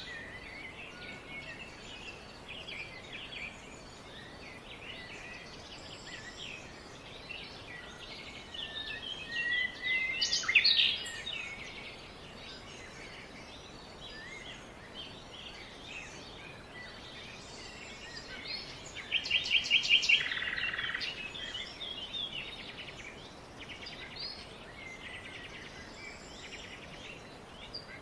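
Various small birds chirping and calling, many short notes overlapping. A louder flurry of chirps comes about ten seconds in, and a fast trill of repeated notes about twenty seconds in.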